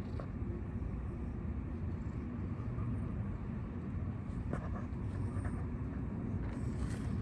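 Steady low outdoor rumble, with a few faint clicks partway through and near the end.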